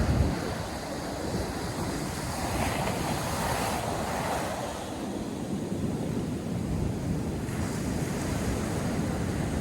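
North Sea surf breaking and washing up a sandy beach, one wave's wash swelling up about three seconds in and then fading. Wind buffets the microphone, most strongly at the start.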